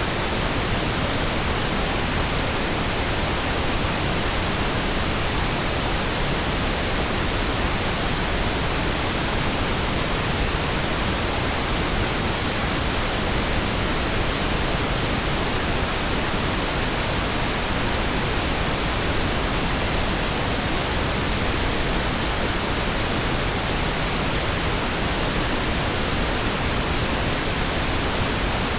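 Pink noise: a steady, even hiss spread across all pitches with no changes or interruptions.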